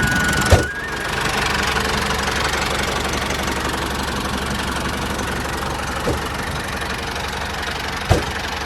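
Small motor of a DIY model mini tractor running steadily, with a few short knocks: one about half a second in, one about six seconds in and one near the end.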